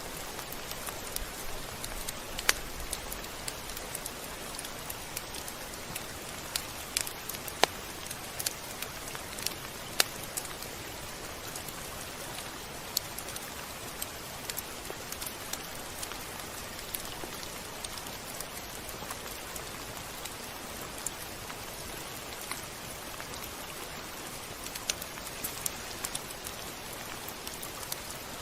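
Steady rain hiss with scattered sharp drips and ticks of drops hitting a surface, a few louder ones standing out.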